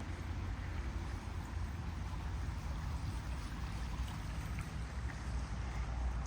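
A small stream's water flowing steadily, with a low rumble underneath.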